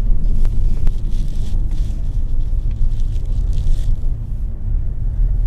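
Porsche 718 Boxster's turbocharged flat-four running, heard as a steady low rumble of engine and road noise.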